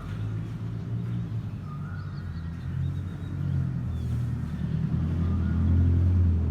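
Domestic cat purring close to the microphone, a steady low rumble that swells louder in the second half, the sign of a contented cat being scratched.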